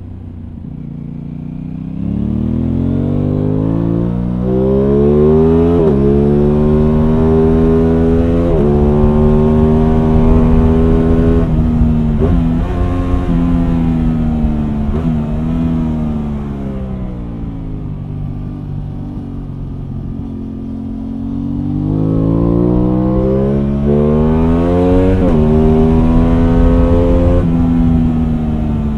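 Aprilia Tuono 660 Factory's parallel-twin engine heard onboard while riding: it accelerates hard through the gears with quick upshifts, each a sudden drop in pitch, eases off and slows in the middle, then pulls up through another gear change before backing off near the end.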